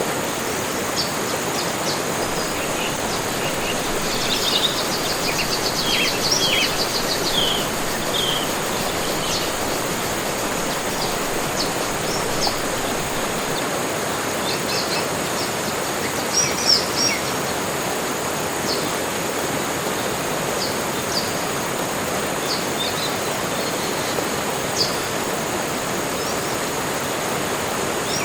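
Tropical forest birds singing and chirping over a steady rushing hiss. Short high chirps come scattered throughout, with a busier trilling song about four to eight seconds in and a few sharp, louder chirps around sixteen seconds.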